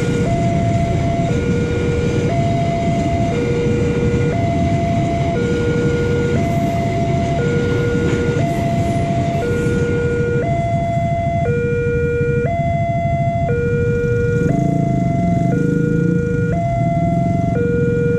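Level-crossing warning siren sounding a two-tone alarm, switching between a lower and a higher note about once a second, over a steady low rumble.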